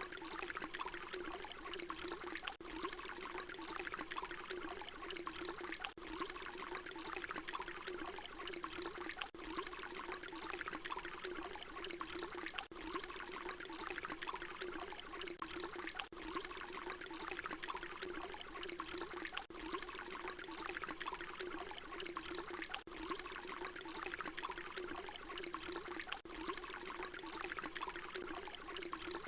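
Water pouring in a steady stream. It is a short recording looped, so a brief dip recurs about every three seconds.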